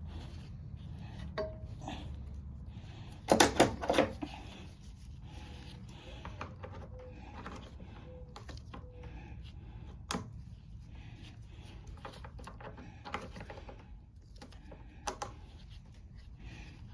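Small parts and tools being handled in a workshop: scattered clicks and knocks, loudest as a quick cluster of clacks about three to four seconds in, then single clicks now and then over a low steady hum.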